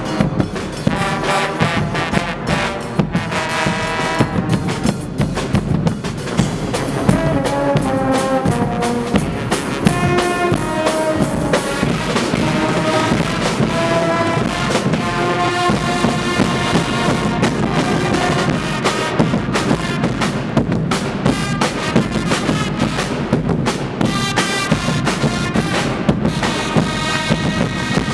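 Guggenmusik band playing loudly: a brass section of trumpets and trombones carries a melody over drums keeping a steady beat.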